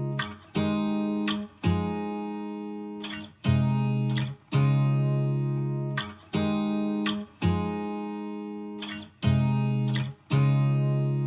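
Background music: acoustic guitar chords, each struck and left to ring out, one about every second or so in a slow, even rhythm.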